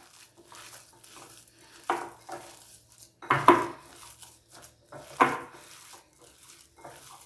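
A spoon mixing mashed potato filling in a bowl: soft scraping and stirring, with three sharper clinks against the bowl about two, three and a half, and five seconds in.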